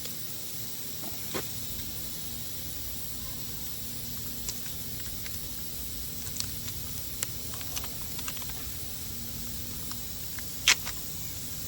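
Steady hiss with scattered small clicks and taps of tools being handled during a tire repair, and one sharp, louder click near the end.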